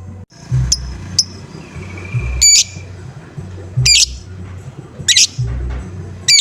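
Lovebird giving about six short, loud 'ngoek' calls, roughly one every second or so. A low pulsing sound runs underneath.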